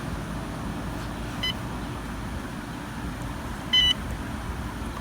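Short electronic beeps from a Humminbird Helix 7 fish finder being operated, one about a second and a half in and a louder one near the end, over a steady low hum.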